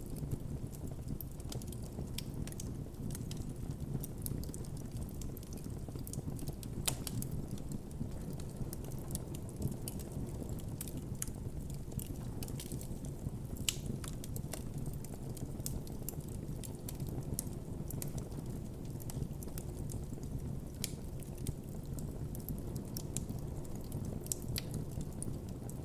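Campfire burning steadily: a low rumble of flames under frequent sharp crackles and pops of burning wood, a couple of louder pops along the way.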